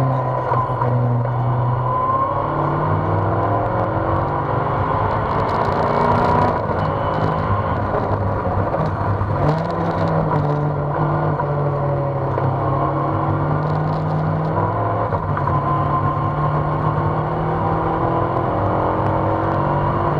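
Engine of an open-cockpit Seven-style sports car, heard from on board at speed on a race circuit. The engine note climbs and falls again and again as the car accelerates, changes gear and slows for corners, with a clear jump in pitch about nine seconds in.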